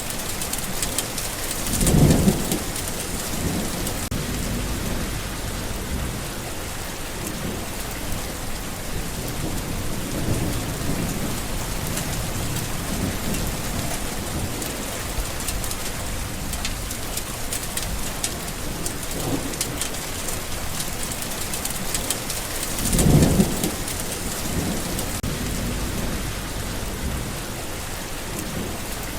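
Steady rain falling, with thunder rumbling low in the background; two louder rolls of thunder come about two seconds in and again about three-quarters of the way through.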